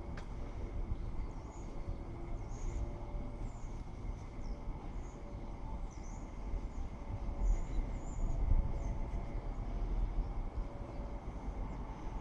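Electric suburban train rumbling at the station, with a faint steady hum over the low rumble. Small birds chirp briefly again and again above it.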